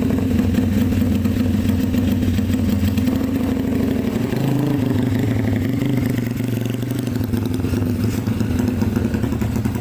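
Motorcycle engine idling steadily through an aftermarket BMS exhaust (knalpot), a deep, even exhaust note.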